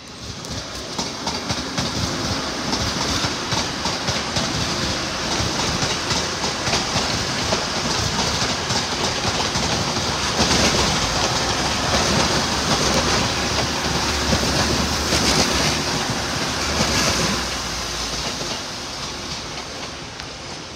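TransPennine Express Class 185 diesel multiple unit passing close by, its engine running and its wheels clattering over the pointwork. The noise builds from the start, is loudest about halfway through, and eases off near the end.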